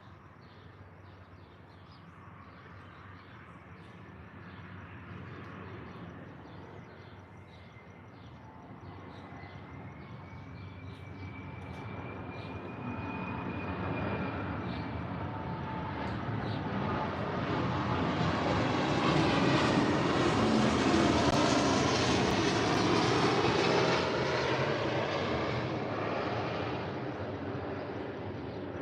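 Airplane passing overhead: its engine hum builds slowly, is loudest about two-thirds of the way through, then fades away.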